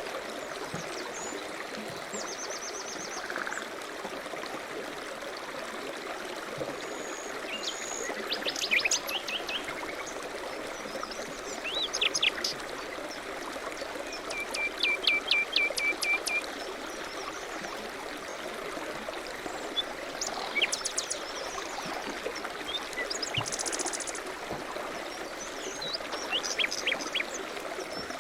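Several small songbirds singing and calling, with quick trills and rapid runs of repeated notes, over the steady rush of flowing water.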